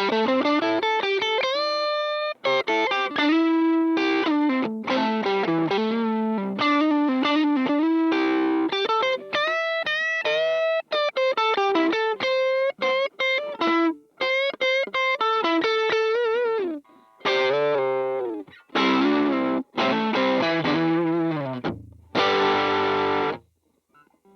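Electric guitar played through a Demonfx King Spark overdrive pedal with a distorted tone: single-note lead lines with string bends, then a few held chords with short breaks between them near the end.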